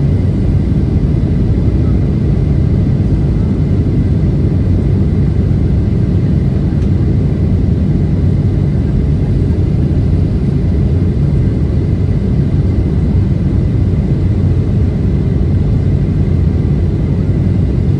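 Steady cabin noise of a Boeing 737-700 in descent: a low rumble of airflow and its CFM56-7B engines, with a faint steady whine above it.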